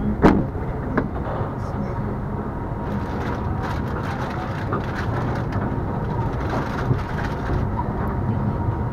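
Passenger train rolling slowly into a station, heard from on board: a steady low rumble of wheels on rails, with a few sharp clicks in the first second.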